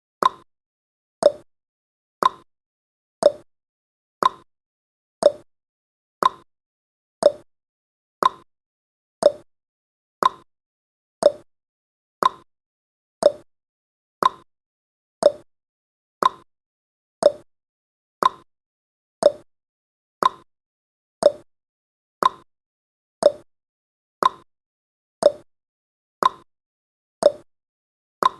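Clock tick-tock sound effect of a countdown timer, one sharp click every second, alternating between a higher tick and a lower tock.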